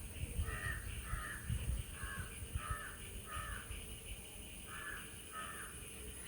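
A crow cawing: seven short, hoarse caws, five in quick succession and then two more after a pause, over a low rumble during the first few calls.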